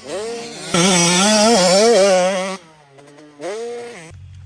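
Dirt bike engine revving hard, its pitch rising and falling with the throttle; it cuts off abruptly about two and a half seconds in, and a shorter rev rises and falls near the end.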